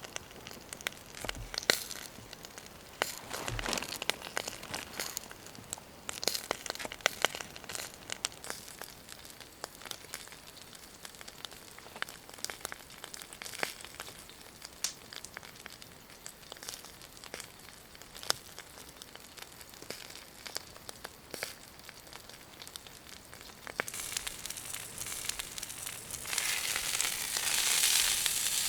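Scattered crackles and rustling from handling at a campfire. About 24 s in, food starts sizzling in a hot pan over the fire, and the sizzle grows louder a couple of seconds later.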